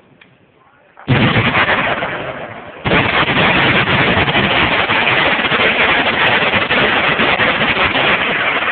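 Massed machine-gun fire from many guns at once, a dense, continuous rattle. It starts abruptly about a second in, eases off, then comes in again louder near three seconds and keeps up steadily.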